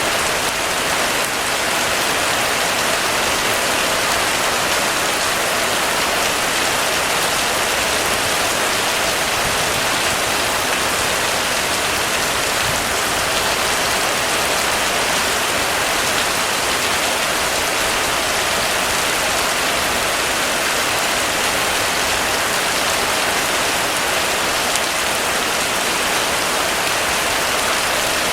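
Heavy rain falling steadily on surfaces, an even, unbroken hiss with no thunder or distinct drops standing out.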